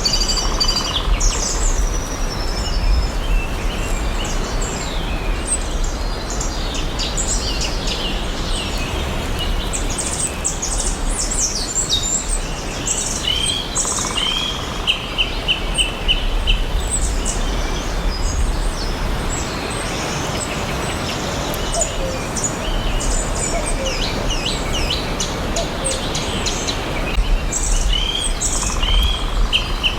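Several forest birds chirping and singing, with many short high calls overlapping and a fast run of repeated notes about halfway through and again near the end, over a steady background hiss.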